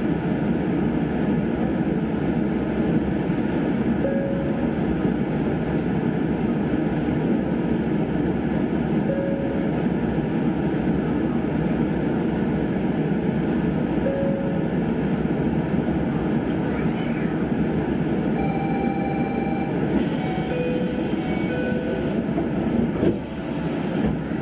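Steady running noise of a Sanyo Electric Railway electric train standing at a station. A short beep comes about every five seconds, and a few brief higher tones sound near the end.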